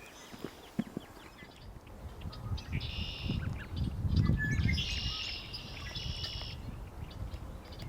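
A bird calling in two high-pitched bouts, a short one about three seconds in and a longer one of about two seconds a little later, over a low rumble.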